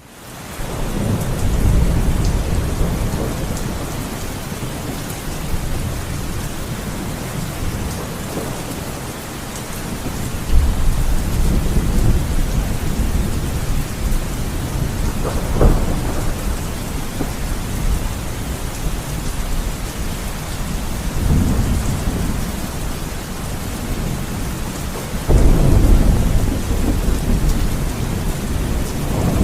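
Heavy rain falling steadily, with deep low rumbles swelling up and dying away several times.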